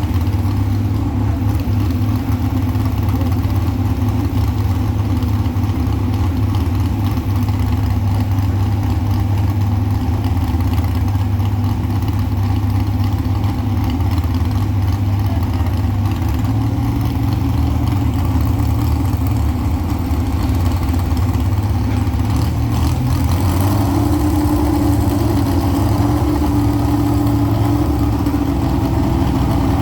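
Engine of a pulling truck running loudly and steadily. About 23 s in its pitch steps up to a higher, steadier note.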